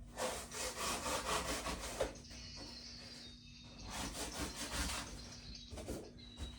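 Rough scraping and rubbing in quick repeated strokes as things are handled, with a quieter stretch of about two seconds in the middle.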